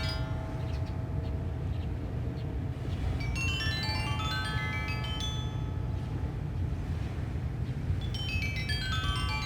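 Sanukite stone xylophone, tuned to 432 Hz, playing quick pentatonic runs of ringing struck notes. It sweeps down and back up in pitch about three to six seconds in, and starts another downward run near the end, over a steady low rumble of wind.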